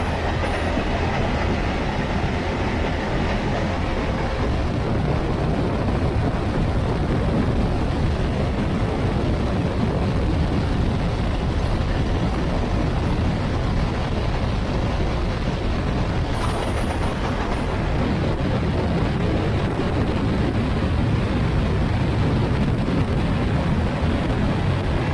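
Steady rush of wind and road noise from a motorcycle cruising at highway speed, with the engine's drone underneath.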